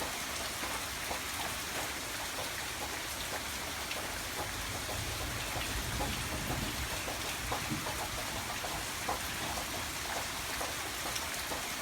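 Steady rain falling, with many individual drops ticking on a surface. A low rumble swells and fades about midway.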